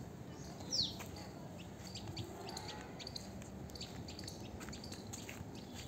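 Small birds chirping, with one sharp call falling in pitch about a second in and short high chirps scattered throughout.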